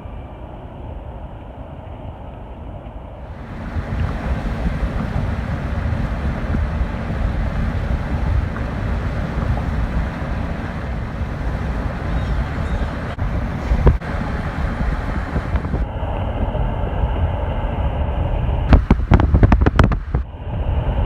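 Wind buffeting a phone microphone outdoors: a loud, steady low rumble, with a few sharp knocks of the phone being handled near the end.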